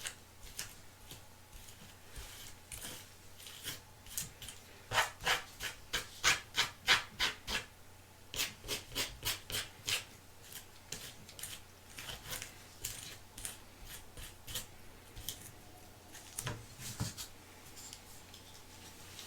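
Repeated short rubbing or scraping strokes by hand, about three a second. They are loudest in a run through the middle and then come more sparsely.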